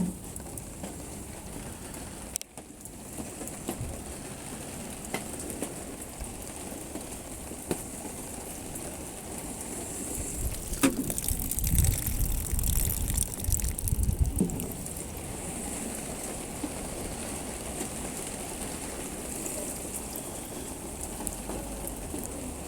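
Water splashing and running steadily over a car's hood in a leak test after its rain drain holes were cleared, with a few low bumps and knocks about halfway through.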